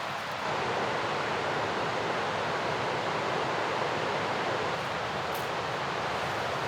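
Mountain river rushing steadily, a dense even roar of flowing water that grows louder about half a second in.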